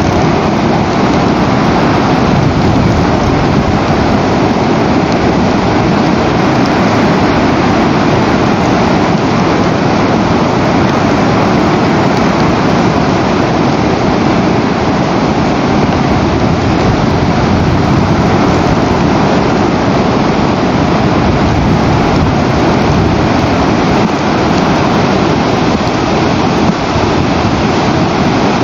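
Loud, steady rushing noise of wind or rain on an outdoor nest camera's microphone, with no distinct calls or knocks.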